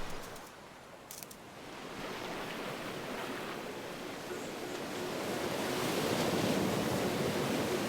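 Sea waves washing onto a beach, the surf swelling gradually louder over several seconds.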